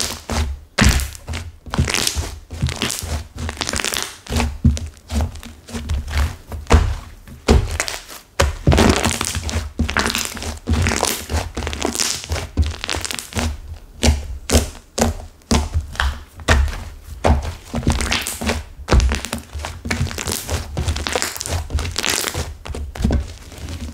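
A stiff, hardened clay-mixed slime being pressed and squeezed by hand, giving an irregular run of dull thunks mixed with crackling and crunching.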